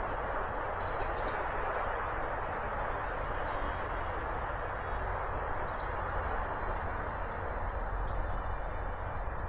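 Steady rushing forest background with a small bird giving short, high single call notes every two to three seconds. There are a few sharp clicks about a second in.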